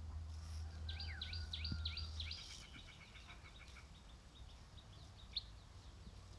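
Small birds chirping: a quick run of about eight sharp, high chirps about a second in, then fainter calls and one more chirp near the end, over a low rumble that stops after about two seconds.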